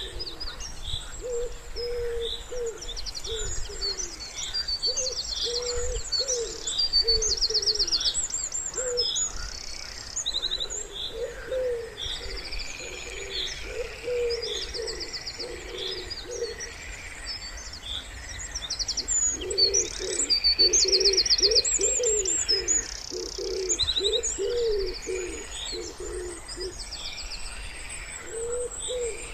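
Wood pigeons cooing in low, repeated phrases, loudest about two-thirds of the way through, over several small songbirds singing fast, high trills and chirps.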